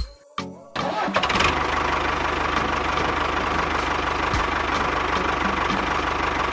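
Small engine of a DIY mini tractor running steadily with a fast, even beat. It cuts in abruptly about a second in, after a brief snatch of music.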